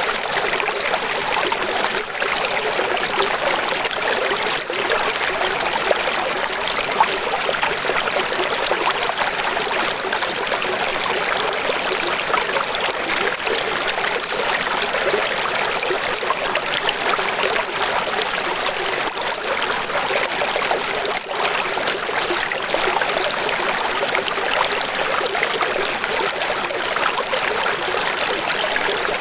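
Steady running water, a continuous splashing and trickling rush with no breaks.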